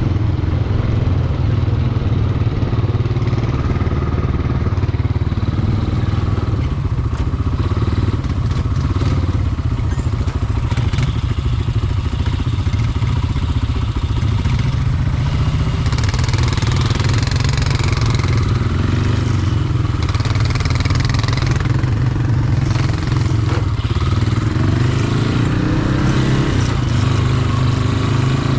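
Four-wheeler (ATV) engine running steadily under way, its pitch shifting with the throttle and climbing near the end.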